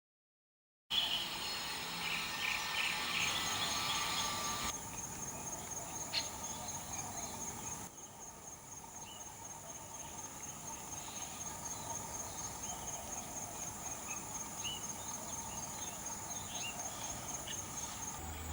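An insect trilling steadily at a high pitch, with short bird chirps scattered over it, busiest in the first few seconds.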